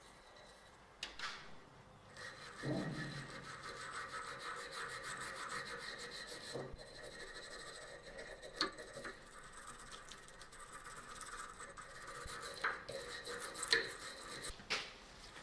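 Continuous rubbing against a surface, with a few sharp knocks, most of them near the end.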